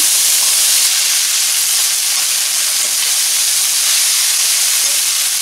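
Steady sizzling hiss of soaked poha (flattened rice) frying in hot oil in a kadhai as it is stirred with a spatula; the water held in the pre-soaked flakes makes the oil sizzle.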